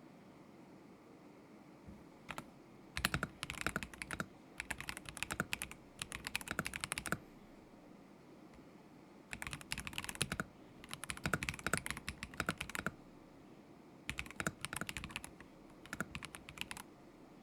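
Typing on a KZZI K75 Pro mechanical keyboard with Moment linear switches: three spells of rapid keystrokes, each a few seconds long, with short pauses between them.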